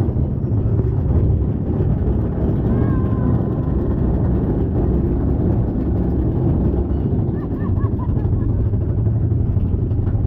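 Mine-train roller coaster running along its track: a steady low rumble of the cars on the rails, with a few brief high squeals about three seconds in and again near eight seconds.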